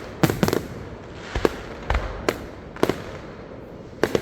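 Aerial fireworks exploding: a quick cluster of sharp bangs, then single booms every half second or so. Near the end comes a dense run of rapid crackling bangs.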